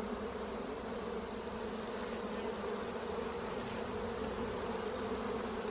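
Many honey bees buzzing around an opened hive: a steady, even hum.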